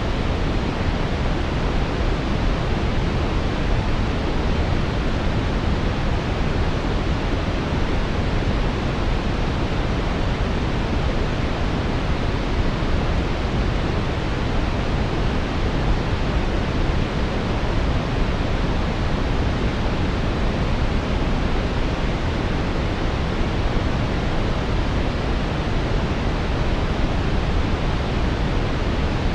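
Steady synthetic brown noise: an even, deep rushing hiss, strongest in the low end and with no changes or events.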